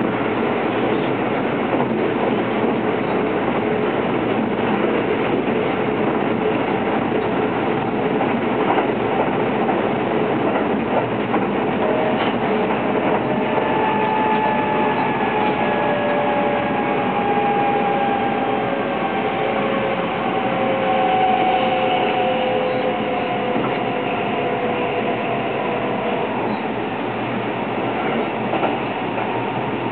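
Interior running sound of a Kintetsu 22600 series 'Ace' limited-express electric train at speed: a steady rumble of wheels on rail and running gear. Faint tones slowly fall in pitch through the middle stretch.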